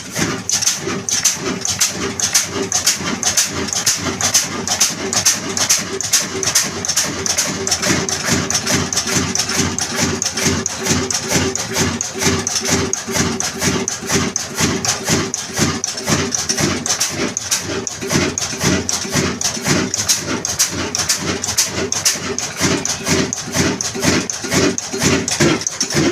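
Old black desi diesel engine of the Ruston Hornsby type, which drives a tube-well pump, running steadily after being hand-cranked, with a fast, even chuffing beat.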